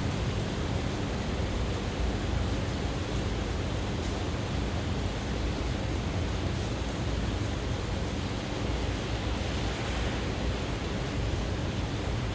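Steady rain falling, a continuous even hiss with no distinct drops or thunderclaps.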